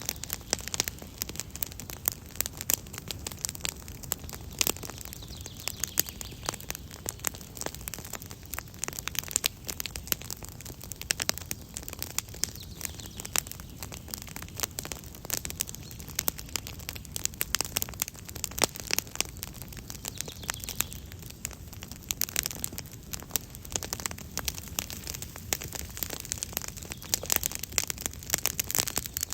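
Campfire crackling steadily, with dense irregular pops and snaps.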